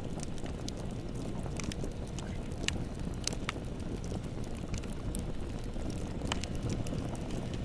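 Bonfire burning: a steady low rumble of flames with scattered sharp crackles and pops of burning wood, a few a second.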